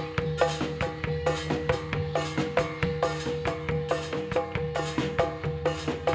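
Javanese gamelan ensemble playing: pitched metal bars struck in a quick, even interlocking pattern over a held ringing tone, with drum beats underneath.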